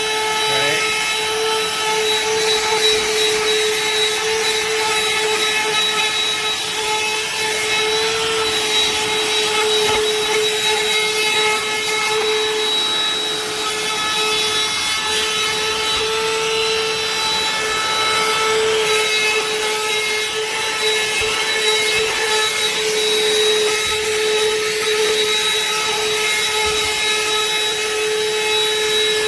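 BLACK+DECKER 20V dustbuster (BDH2000L) cordless handheld vacuum running steadily and kind of loud while sucking up debris: a constant motor hum with a high whine over the rush of air.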